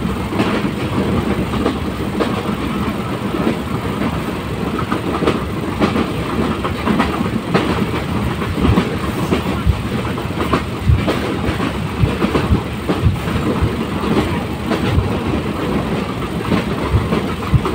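Passenger train running along the track: a steady rumble with frequent irregular knocks and rattles as the wheels clatter over the rail joints.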